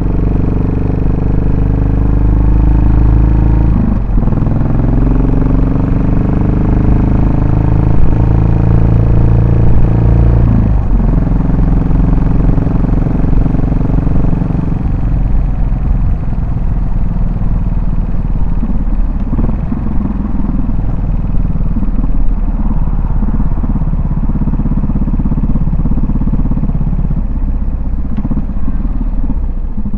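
Yamaha SR400's air-cooled single-cylinder four-stroke engine and exhaust under way, the note rising as it accelerates, with gear changes about four and eleven seconds in. From about halfway it drops to a lower, rougher beat as the bike eases off.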